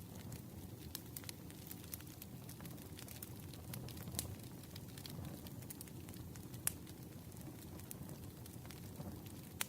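Campfire burning, with a steady low rumble of flames and frequent scattered sharp crackles and pops from the burning wood.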